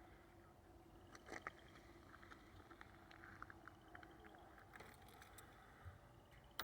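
Near silence with scattered faint clicks and a couple of sharper taps, and a faint high rapid ticking trill that comes and goes.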